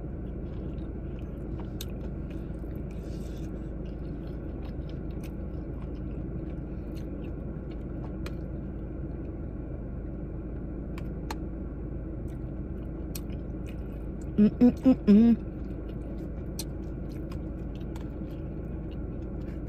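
Close-miked chewing and mouth sounds of someone eating greens and macaroni with a fork from a plastic takeout container, with scattered small clicks, over a steady low hum in a car cabin. About three-quarters of the way through, a short voiced sound in four quick pulses stands out as the loudest thing.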